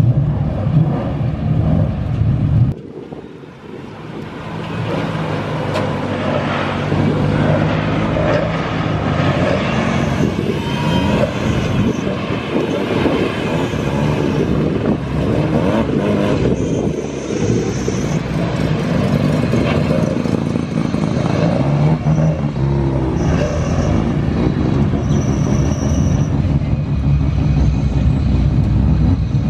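Modified drift cars' engines idling and revving as they pull away one after another, the pitch rising and falling with each blip of the throttle. The sound drops away briefly about three seconds in.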